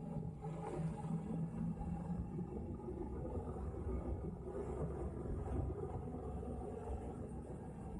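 Low wind and road rumble on the microphone of a camera carried on a moving bicycle. A steady low hum fades out about two seconds in.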